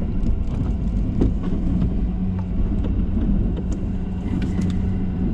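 Ford F-350 pickup truck running steadily, a low rumble with a steady hum.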